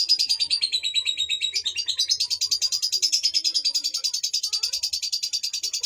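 Male lovebird singing a long, unbroken string of rapid high chirps, about eight a second, the pitch dipping slightly and coming back up about two seconds in.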